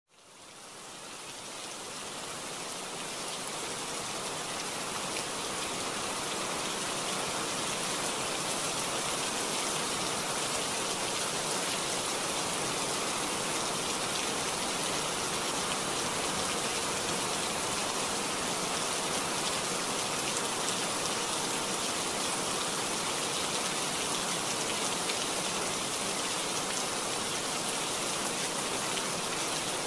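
Heavy monsoon rain pouring steadily, a dense, even hiss that fades in over the first few seconds and then holds.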